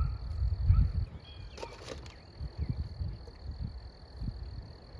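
Steady high-pitched insect trill, like crickets, running throughout, over low rumbling bumps on the microphone in the first second and scattered rustles and thumps from plastic garden netting being handled.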